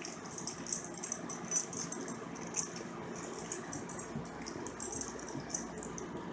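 Metal tags on a dog's collar jingling in short, irregular shakes.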